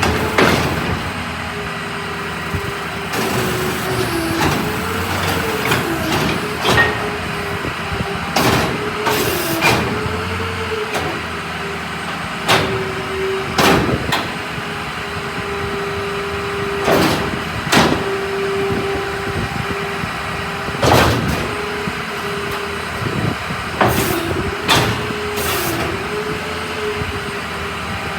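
Ford F-550 rear-loading garbage truck running, with a steady whine that sags in pitch and recovers several times. Short, sharp knocks come every few seconds.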